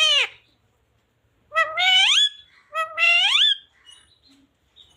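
Indian ringneck parrot calling: two loud calls, each rising in pitch, a little over a second apart.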